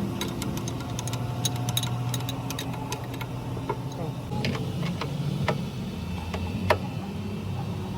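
Steady low machine hum with irregular sharp metallic clicks and taps, densest in the first three seconds and scattered after.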